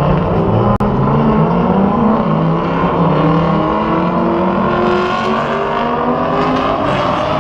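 Car engines running and revving, several engine notes overlapping and wavering in pitch throughout.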